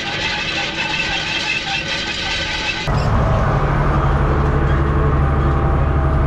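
Tractor engine running steadily under field work, with rattling from the machinery. About three seconds in the sound cuts abruptly to a steadier, deeper engine drone with less rattle.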